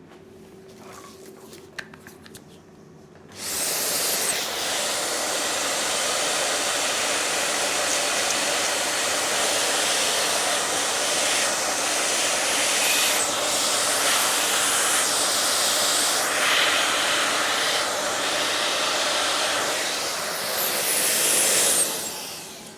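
A motor-driven appliance or power tool starts a few seconds in and runs steadily with a loud, airy hiss for nearly twenty seconds, then cuts off just before the end.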